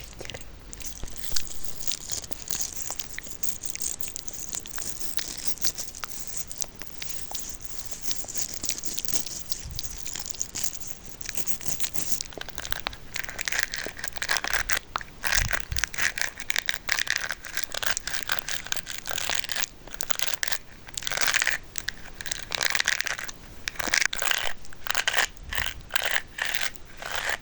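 ASMR trigger handled close to the microphone: dense crinkling and crackling, turning into sharper, louder clicks about halfway through.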